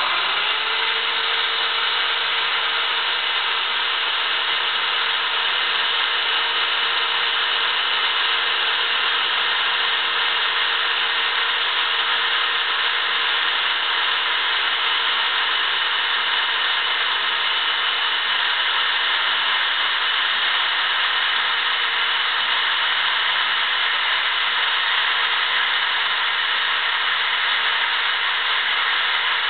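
Electric drill running steadily at one constant speed, its motor spinning up right at the start and then holding a steady whine over a dense rushing noise, typical of drilling out a broken exhaust stud.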